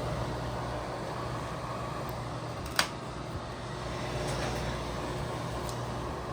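Freshly cleaned bathroom exhaust fan running steadily with a low hum and a rush of air. A single sharp click about three seconds in.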